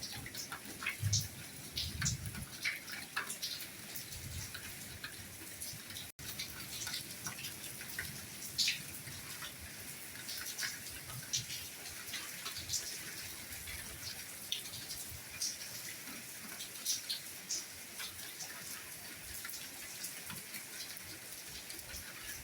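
Soft, steady rainfall: a constant hiss of rain with many individual drops ticking and tapping close by, and now and then a soft low thud of a heavier drop. The audio drops out for a split second about six seconds in.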